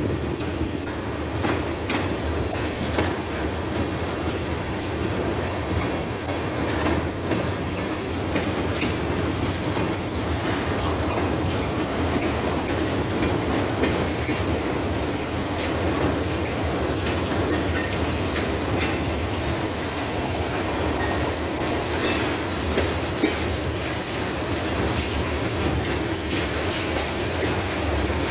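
Freight train cars rolling past close by: a steady rumble of steel wheels on rail, with frequent irregular clicks and clacks as wheels cross rail joints.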